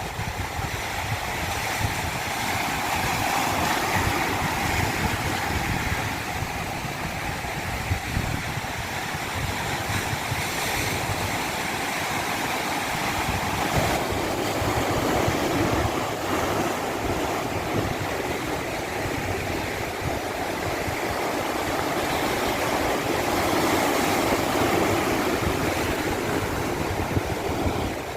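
Running water making a steady rushing noise that swells and eases in slow surges every several seconds.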